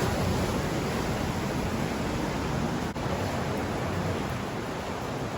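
Steady rush of ocean surf with a low rumble of wind on the microphone, broken by a momentary dropout about three seconds in.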